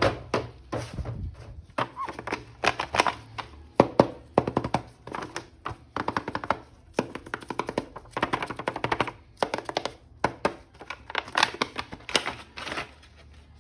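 Quick, irregular run of taps, clicks and knocks, like small hard plastic pieces being handled and set down.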